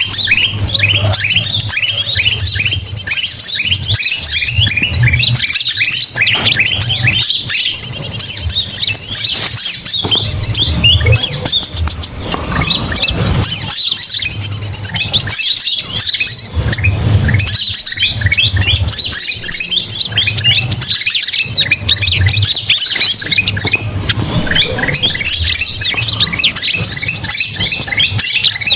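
Dense, loud chorus of rapid chirping bird calls, a bird-luring recording of noisy mobbing-style calls. A fast high trill comes back about every six seconds, as in a loop, over a low hum.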